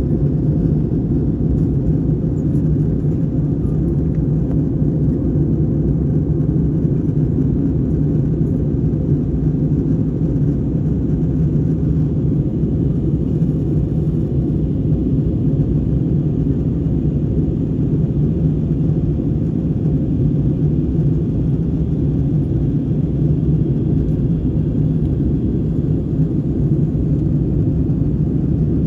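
Steady low cabin rumble of an airliner in flight, the engine and airflow noise heard from inside the cabin during the descent toward landing.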